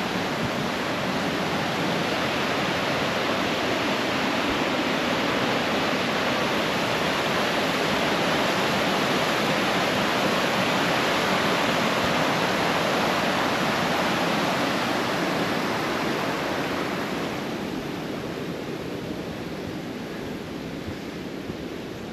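Creek water rushing over a waterfall in a steady, even rush. It grows a little louder toward the middle and fades over the last few seconds.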